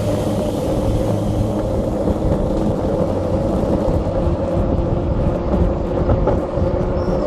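Mountain bike riding downhill on a rough dirt track: a loud, steady rumble of wind and rattling jolts from the terrain, with a faint steady hum underneath.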